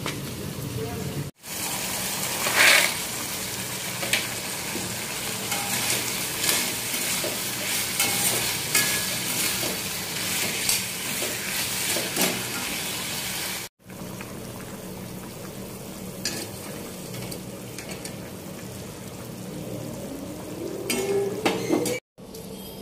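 Spices and oil sizzling in a black kadhai while a perforated steel slotted spoon stirs fried urad dal bari and potato pieces into the masala, with clicks and scrapes of the spoon against the pan. The sizzling is broken by two brief silences.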